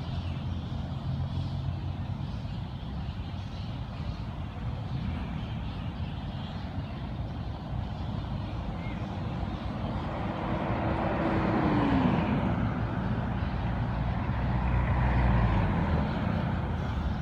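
Road traffic: vehicle engines running steadily, with two louder vehicles passing, one about ten to twelve seconds in with a falling pitch, another about fifteen seconds in.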